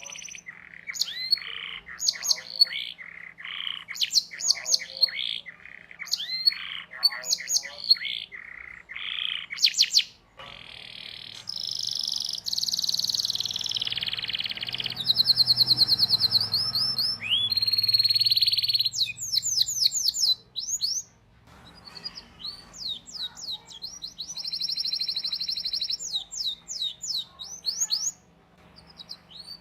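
Domestic canary singing: strings of quick chirping notes, then long, fast rolled trills from about the middle onward, with brief pauses between phrases.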